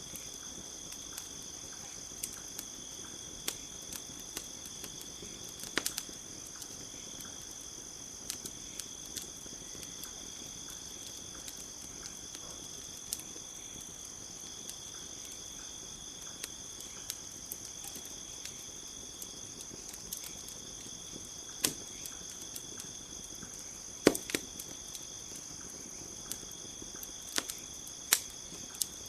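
Campfire crackling with scattered sharp pops, the loudest a little past two-thirds of the way through, over a steady high chorus of night insects.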